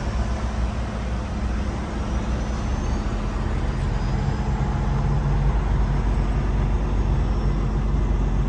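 Kenworth T680 semi truck's diesel engine running, heard inside the cab as a steady low drone that grows a little louder about halfway through.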